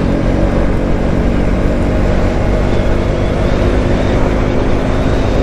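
Motorcycle engine running while riding, under steady wind and road noise.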